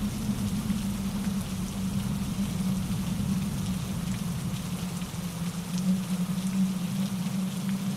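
Steady rain with a fine patter of scattered drops over the continuous low rush of a mountain stream tumbling over rocks.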